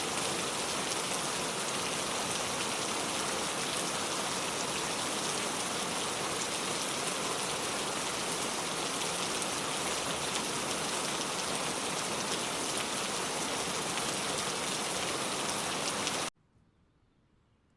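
Rain falling steadily, an even hiss with no thunder, that cuts off suddenly near the end, leaving near silence.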